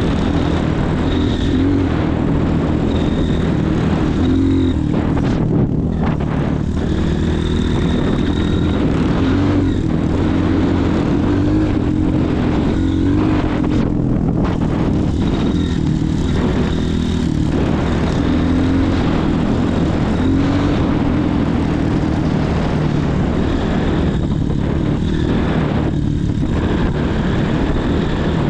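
Motorcycle engine running steadily as it is ridden, its pitch wavering up and down with the throttle, over a constant rush of wind and road noise.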